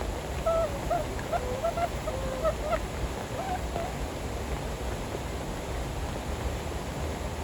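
Steady rain noise, heavy rain falling on and around the tent. In the first half, a quick run of short pitched calls, an animal or bird, sounds through it for about three seconds.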